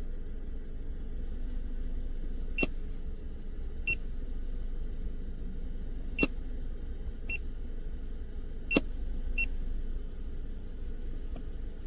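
Short high-pitched key beeps from a handheld OBD2 scan tool, six of them at uneven intervals, some with a button click, over a steady low hum.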